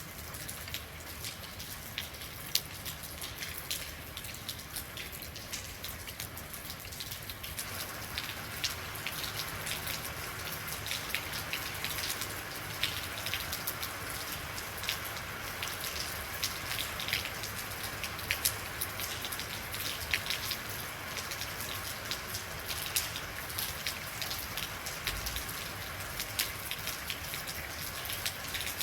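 Real rain falling steadily, with many individual drops ticking sharply on a hard surface. The rain thickens slightly about a quarter of the way in.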